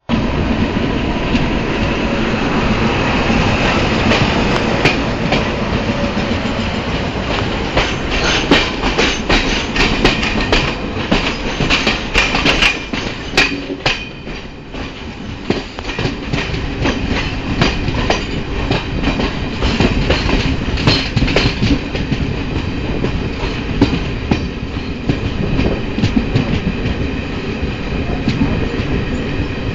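Train wheels running over rail joints as trains pass on the line, giving a steady rumble with rapid clickety-clack. The clatter is densest about a third of the way through and eases briefly near the middle.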